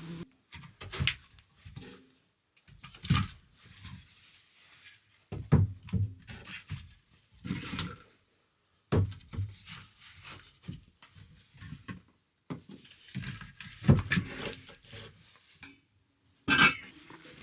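A series of irregular dull thumps and knocks, one every second or two, with brief quiet gaps between them; the loudest comes about fourteen seconds in.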